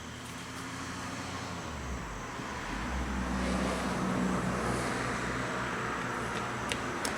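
Road traffic noise: a motor vehicle's low rumble that grows louder over the first three seconds, then holds steady.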